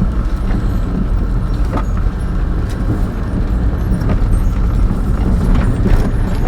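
Van engine and road noise inside the cab while driving, a steady low rumble with a few light rattles.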